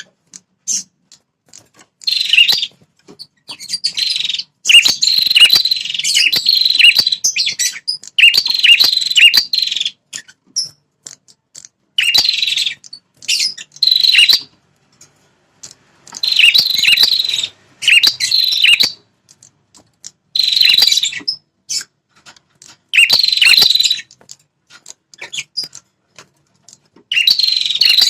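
Prenjak kepala merah, a small red-headed prenjak songbird, singing loud, high-pitched chattering phrases of half a second to two seconds each, repeated with short pauses between them. It is the territorial song used as a lure call to provoke wild male prenjak.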